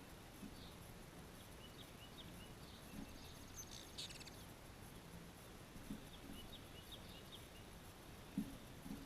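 Pet birds chirping faintly: scattered short, high chirps, with a brief buzzy rattling call about four seconds in. A few soft low thuds are heard among them.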